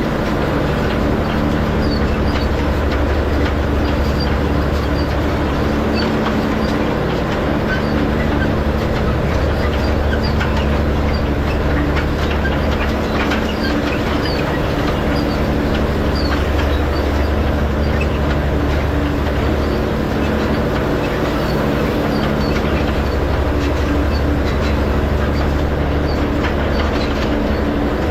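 Tractor engine running steadily under load while pulling a hay rake, with a light, scattered clatter from the rake.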